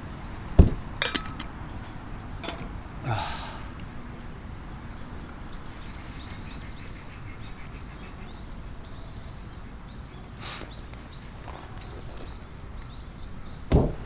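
Outdoor ambience: a steady low rumble with a few scattered sharp knocks, and faint short repeated bird chirps in the second half.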